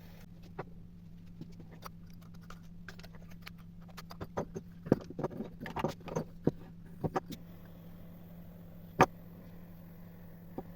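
Scattered clicks and knocks of small hard objects being handled, densest in the middle, with one sharp knock about nine seconds in, over a steady low hum.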